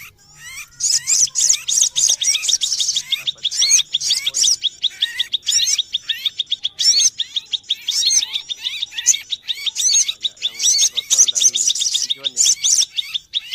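Small songbirds chirping and trilling rapidly in a dense, busy chorus of high notes. A fast, evenly repeated note runs through most of it.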